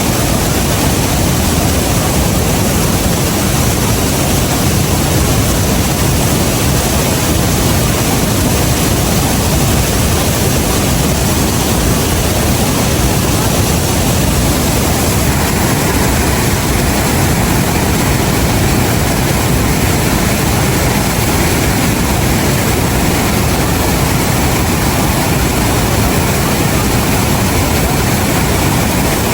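Loud, steady rushing roar of the Rhine Falls, a large river waterfall, without change throughout.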